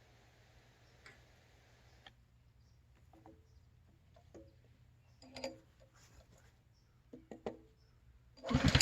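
A few small clicks and taps, then near the end one loud, short pull of the Simpson ALH3228-S pressure washer's recoil starter cord, cranking the new engine, which does not start.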